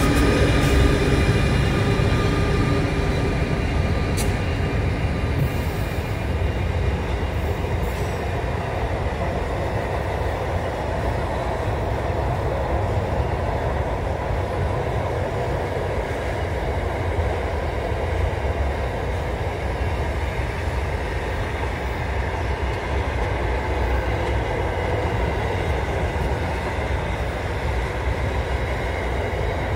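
Intermodal freight train's container wagons rolling steadily over a girder bridge, a continuous rail rumble. The drone of the NR class diesel-electric locomotives fades out in the first few seconds, and a couple of sharp metallic clicks come about four and eight seconds in.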